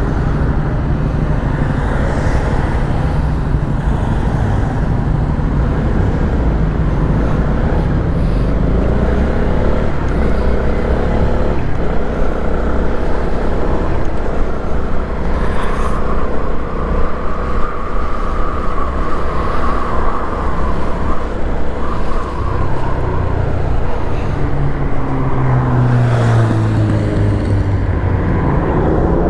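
Honda CB125R's single-cylinder 125 cc four-stroke engine running as the bike rides along, with traffic noise around it; the engine note rises and falls with the throttle and is strongest near the end.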